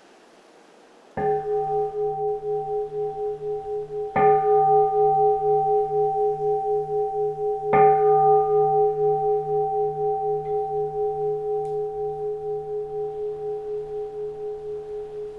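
Keisu, a Japanese Zen temple bowl bell, struck three times about three seconds apart, each strike ringing on with a wavering, pulsing hum that slowly fades. Faint wind before the first strike.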